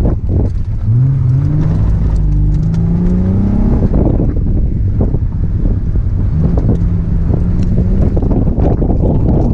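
Ford Mustang's 3.8-litre V6 engine pulling hard under acceleration: its pitch climbs for about three seconds, drops back about four seconds in, then pulls again. Heard from inside the open-top cabin, with wind buffeting the microphone.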